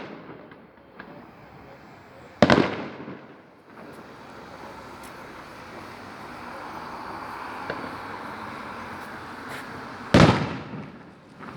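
Fireworks display: two loud aerial shell bursts, one about two seconds in and one near the end, each with an echoing tail. A steady hiss and a few small pops run between them.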